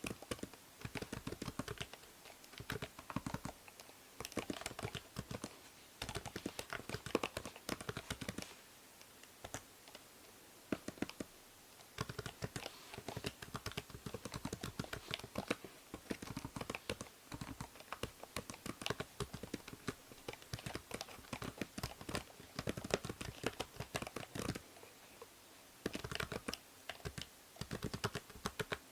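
Typing on a computer keyboard: quick runs of key clicks with short pauses between bursts, over a faint steady hiss from a binaural microphone.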